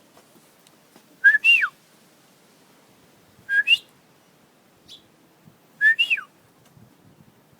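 A person whistling a call to the birds three times, each a short note followed by a higher note that slides steeply down.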